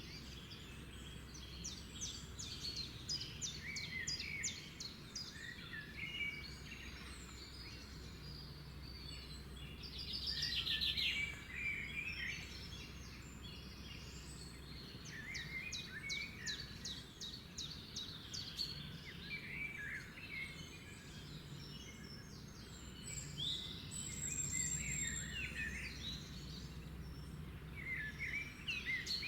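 Several songbirds calling and singing together: quick trills of rapid repeated notes and scattered chirps, with a louder trill about ten seconds in and again near the end. Underneath runs a steady low background rumble.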